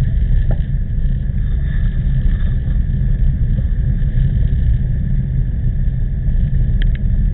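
Wind buffeting the microphone on a moving bicycle in typhoon wind: a loud, steady low rumble, with two short clicks near the end.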